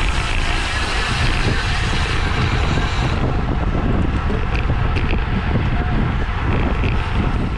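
Wind rushing over a bike-mounted camera's microphone while riding at race speed in a bunch, a steady loud noise with no break.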